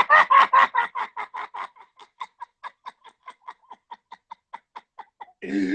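A man laughing hard in a long run of quick, even pulses, about five a second, loud at first and fading away.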